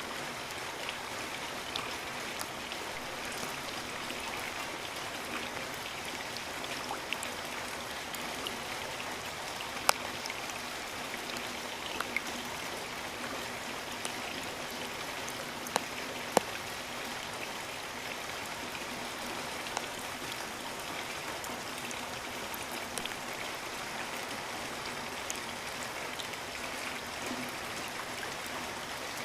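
Steady rain falling in rainforest, a continuous hiss with scattered single heavier drops striking close by, the loudest about ten and sixteen seconds in.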